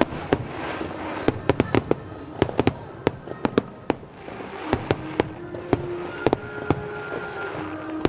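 Fireworks display: aerial shells going off in a quick, irregular series of sharp bangs over a steady rumble.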